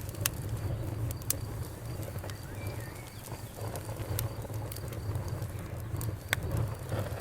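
Wood fire crackling: sharp, irregular pops and snaps over a steady low rumble of the burning fire.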